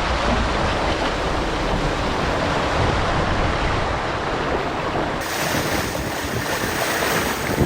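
Steady rush of wind buffeting the microphone and water running along the hull of a sailboat under way, heavier and lower in the first few seconds, with a brighter hiss coming in about five seconds in.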